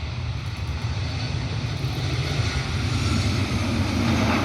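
Jet airliner's engines on approach to land, a steady rumble and hiss growing gradually louder.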